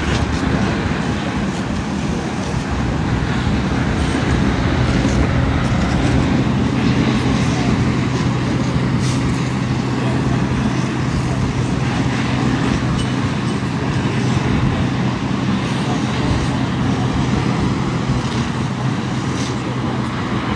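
Steady traffic noise with the even hum of a vehicle engine running close by.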